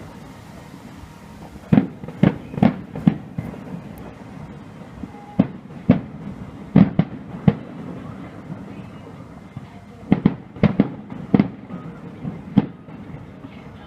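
Fireworks exploding in sharp, irregular bangs, some coming in quick clusters of two or three, with a steady background hiss between them.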